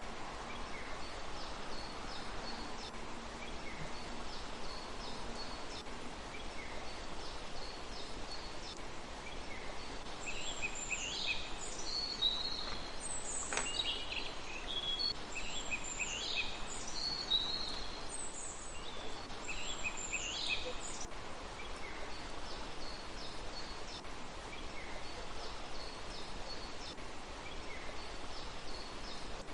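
Small birds chirping and calling over a steady outdoor hiss, with the calls coming thickest through the middle, several overlapping, and one brief click partway through.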